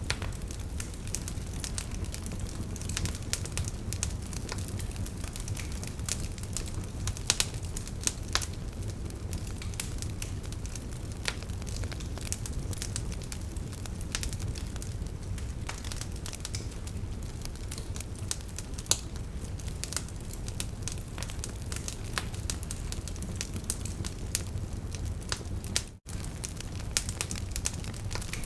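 Wood fire crackling: irregular sharp pops and snaps over a steady low rumble of flames. The sound cuts out for an instant near the end.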